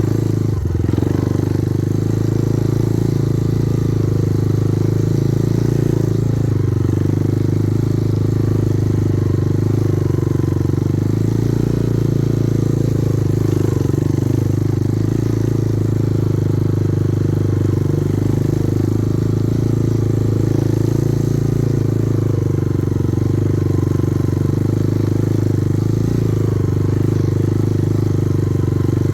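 Kovi Advance 250 motorcycle engine running at a steady pace while riding.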